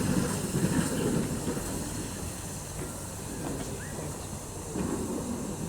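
Steam locomotive working, a steady low rumble with some hiss, loudest in the first second and easing after that.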